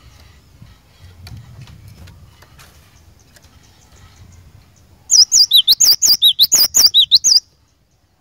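Cinereous tit (glatik batu) singing a loud, fast run of high, looping whistled notes, about seven a second, lasting a little over two seconds from about five seconds in, then cutting off abruptly. Before it there are only faint chirps and ticks.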